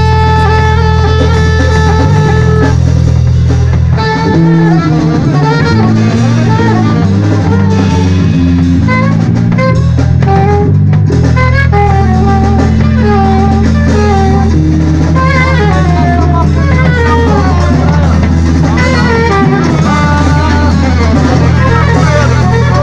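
Live band playing loud with drum kit and guitar, over a steady deep bass, with held and moving melody notes above.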